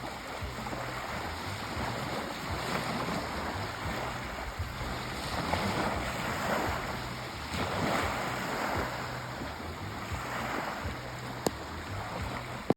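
Sea waves breaking and washing on the shore, the surf swelling and easing every second or two over a low rumble. There is a brief click near the end.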